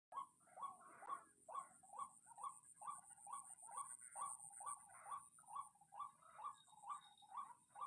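White-breasted waterhen calling: a monotonous run of short croaking notes, about two a second, over a steady high-pitched hiss.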